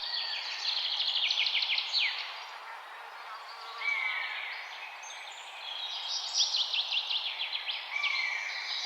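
Birds singing and chirping, with quick runs of high chirps and trills that come thickest in the first two seconds and again in the second half, over a steady hiss.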